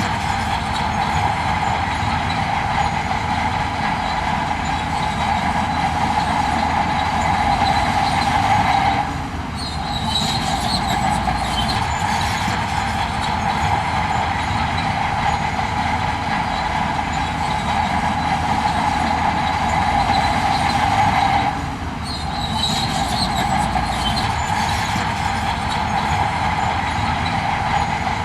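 Heavy earthmoving machinery running steadily, with a loud, constant mid-pitched drone. The sound briefly drops for about half a second twice, about nine seconds in and about twenty-one seconds in.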